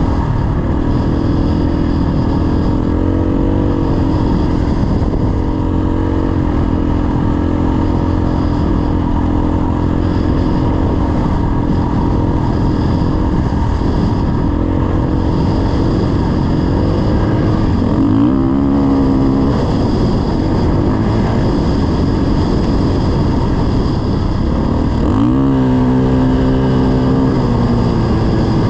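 Dirt bike engine running under way, its pitch shifting with the throttle and gears a few times, notably around a third of the way in, past the middle and near the end, over a steady low rushing noise.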